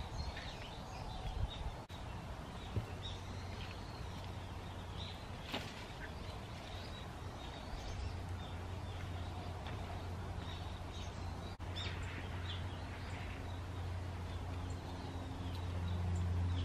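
Wild birds chirping and calling in bare winter scrub, over a steady low hum that grows louder toward the end.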